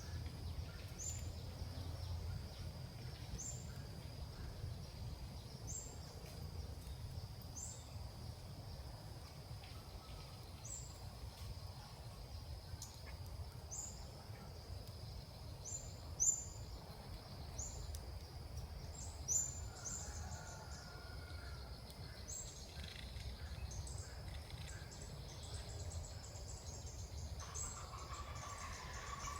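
A small bird repeats short, high chirps every second or two, typical of the female ốc mít call used to lure a male. Behind it run a steady high tone and a low outdoor rumble, and two sharp clicks come a few seconds apart past the middle.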